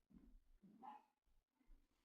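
Faint dog barking: two short barks about a second apart.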